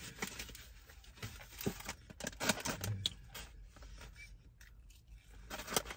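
Chewing breaded fried pickles: a string of small, irregular crisp crunches and mouth clicks.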